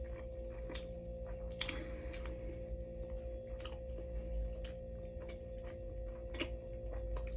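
A person chewing a mouthful of sandwich, with wet mouth clicks and smacks at irregular intervals, over a steady hum.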